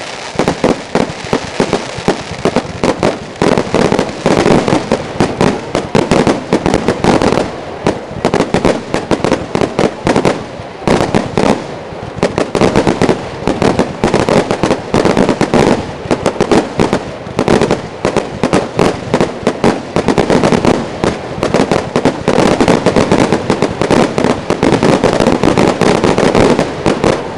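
Aerial fireworks going off without pause: a dense, continuous run of bangs and crackling reports from shells bursting.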